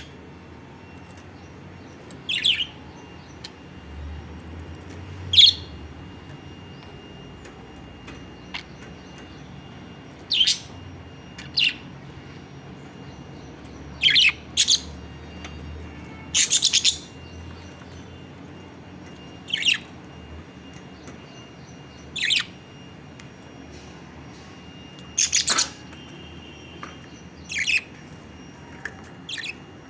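Lovebirds giving short, high-pitched chirping calls at irregular intervals, about a dozen in all, some sweeping downward in pitch.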